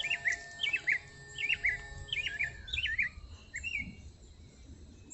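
A small bird calling over and over: short quick chirps in phrases about every second, fading toward the end.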